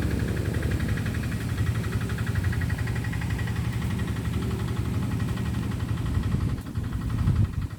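An engine running steadily with a low hum and a fast, even pulsing higher up, dipping briefly near the end.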